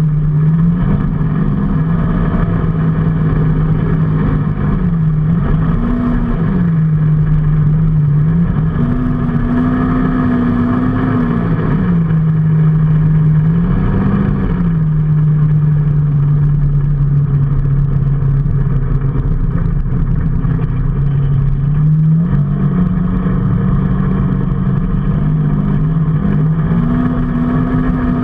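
Vehicle engine running under way, its note repeatedly rising as it speeds up and settling back to a steady pitch, over constant road noise.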